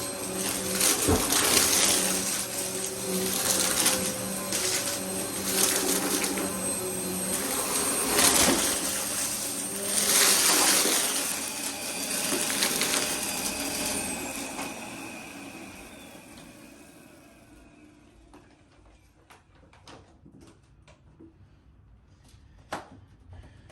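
Vacuum cleaner motor running with a steady whir, then switched off about two-thirds of the way through and winding down to quiet, leaving a few faint clicks and knocks.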